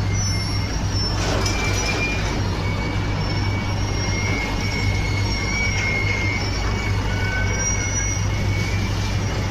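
Sugarcane-loaded truck running: a steady low engine hum with drawn-out high-pitched squeals coming and going over it.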